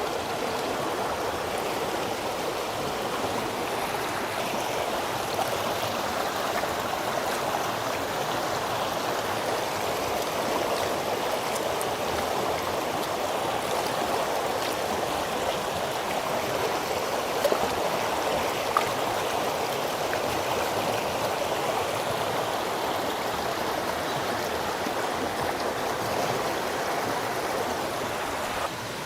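Steady rush of flowing stream water, with a couple of faint clicks partway through.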